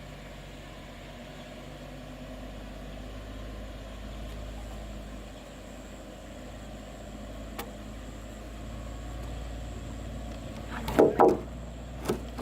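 A steady low motor-like hum, with a single click about seven and a half seconds in and a few loud sharp knocks near the end.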